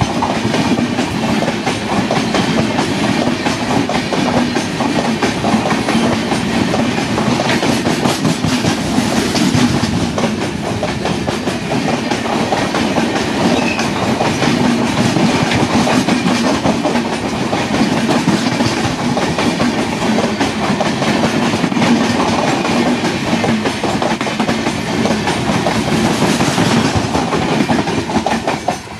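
Passenger train coaches passing close by at speed: a steady loud rolling rumble of steel wheels on the rails, dense with rapid clicks.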